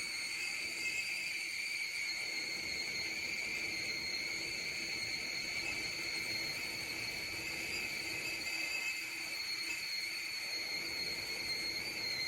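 Easyworkz stainless steel stovetop kettle whistling at the boil: a steady high whistle holding one pitch, which cuts off suddenly at the very end.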